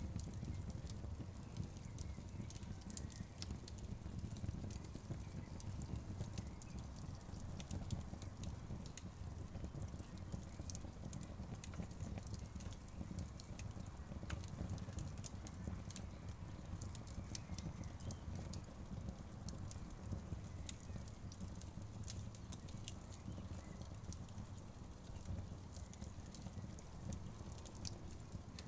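Wood fire burning in a fireplace: irregular crackles and sharp pops from the logs over a steady low rumble of the flames.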